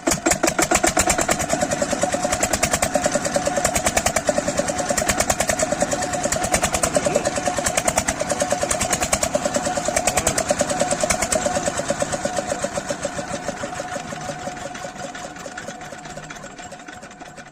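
An 8 hp Kirloskar single-cylinder diesel engine running with a fast, even firing beat. It starts loud, then fades gradually over the last few seconds.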